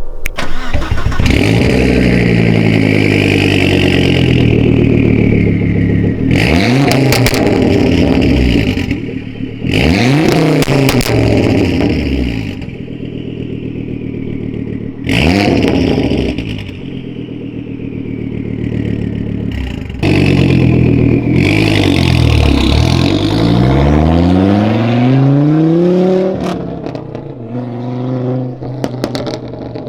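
2006 Volvo S60R's turbocharged 2.5-litre five-cylinder through a straight-pipe exhaust, revved hard several times, the pitch climbing and falling with each rev. About two-thirds through comes one long rising pull. Sudden sharp cracks are heard between the revs.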